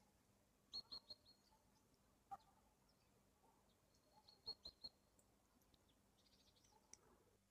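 Faint high bird chirps in quick runs of about four, about a second in and again past the middle, against a quiet room.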